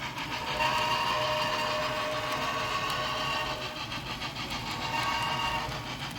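Model locomotive's sound system sounding its horn signal: one long blast of about three seconds, then a short one, over the locomotive's low running rumble.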